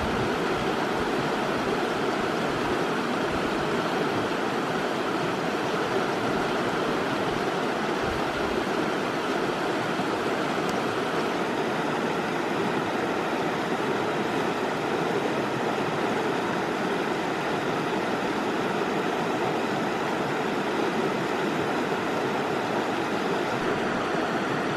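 Rushing water of a spring-fed stream: a loud, steady, even rush.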